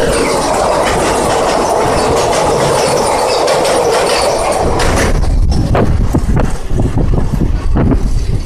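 Passenger train running at speed, wheels and coaches making a steady rushing noise; about five seconds in, the rush drops away into irregular clattering knocks.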